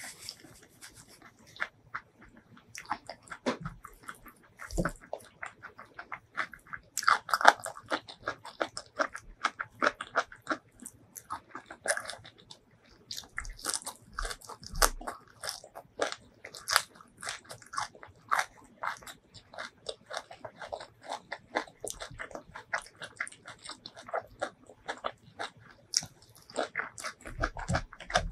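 Close-miked chewing and crunching of food, with many crisp, irregular crunches as raw green vegetable stems are bitten and chewed.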